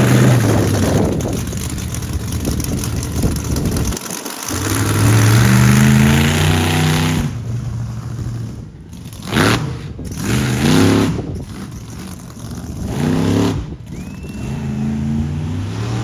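Monster truck engine revving hard. For the first few seconds it is a rough, noisy roar; it drops out briefly about four seconds in, then revs up and down over and over.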